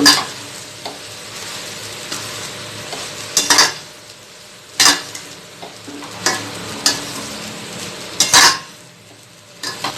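Chicken fried rice being stirred and tossed in a hot pan: steady sizzling, with a utensil scraping and knocking against the pan now and then, the loudest strokes about three and a half, five and eight and a half seconds in.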